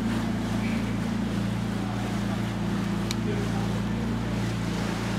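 Tour barge's compressed-natural-gas engine running at a steady low cruising hum, with a single short tick about three seconds in.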